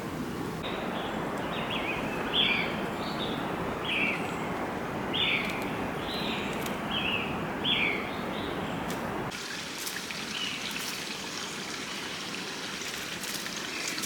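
Flowing water rushing steadily while a bird repeats a short down-slurred chirp about seven times, roughly one every second. About nine seconds in, the sound cuts to a thinner, lighter trickle of water with a few faint chirps.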